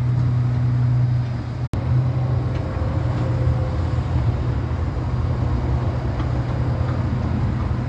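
Truck engine running steadily with a low, even hum. The sound cuts out for an instant just under two seconds in.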